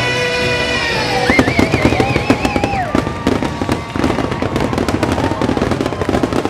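Aerial fireworks going off in a rapid barrage of pops and crackles, dense from about a second in, over the show's music.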